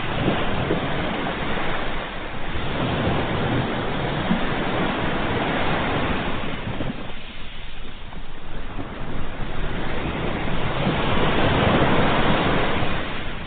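Ocean surf, with waves breaking and washing up in a continuous rush. It eases off around the middle, then swells again to a peak near the end.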